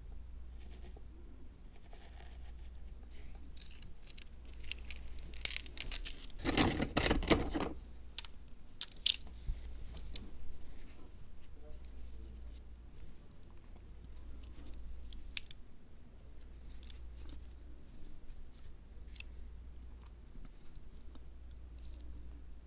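Hands working small craft materials for a miniature zen garden diorama: scattered light clicks and scratches, with a louder, rough burst of cutting or tearing noise lasting about a second, starting about six and a half seconds in.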